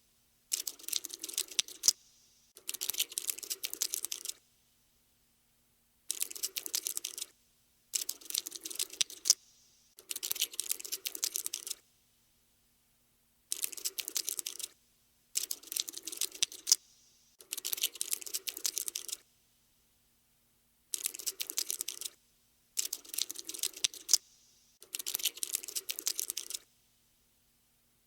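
Cockroach-scuttling sound effect: rapid, dense clicking in about eleven bursts of one to two seconds each, with short silent gaps between them.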